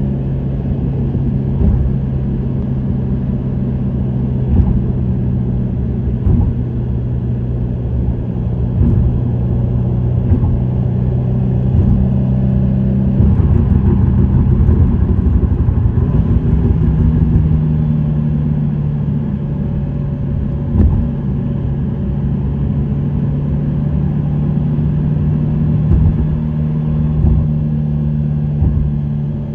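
Subaru WRX STI's turbocharged EJ20 flat-four, with an STI Performance muffler, running at a steady cruise over a low road rumble. About 13 seconds in it gets louder for a few seconds as the engine note rises a little, then holds at the higher pitch.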